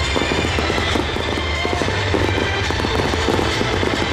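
Fireworks display crackling and popping continuously, with many small bursts over a steady low rumble, and music playing along.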